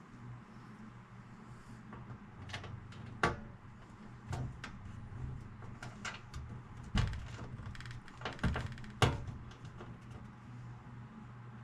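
Scattered clicks and knocks of stereo parts and screws being handled during reassembly, sharpest about three seconds in and again near nine seconds, over a steady low hum.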